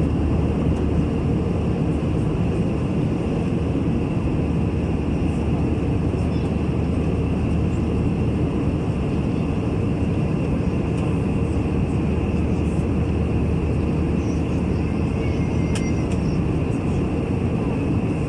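Steady jet airliner cabin noise inside an Airbus A321-200: an even rush of engine and airflow noise with a low hum underneath, unchanging throughout.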